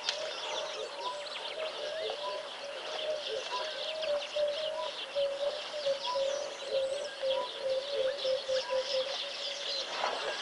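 Birds calling: a low note repeated over and over, coming faster and faster before it stops about nine seconds in, over dense high-pitched chirping.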